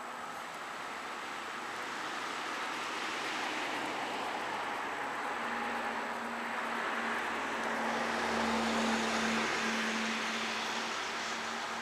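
A motor vehicle going by, its noise swelling to a peak about eight to nine seconds in and easing off, with a steady engine hum under it.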